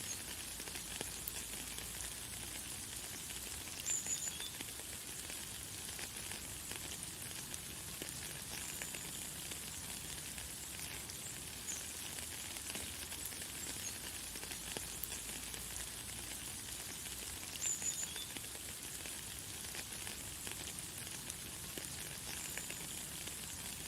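Light, fine rain falling steadily, an even hiss of many small drops. A bird gives short, high chirps, loudest about 4 seconds in and again near 18 seconds.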